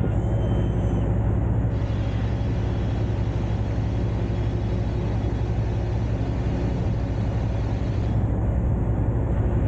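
Peterbilt semi truck's diesel engine running at a steady, even speed with a low hum.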